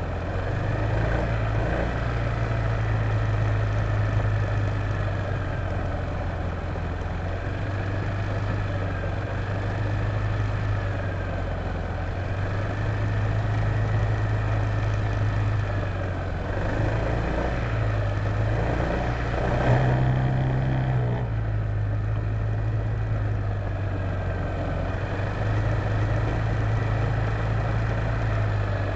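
Honda PCX150 scooter's single-cylinder four-stroke engine running as it is ridden, its note rising and falling in slow swells with the throttle, over steady road noise. About two-thirds of the way through the note briefly drops and changes, with a short louder moment.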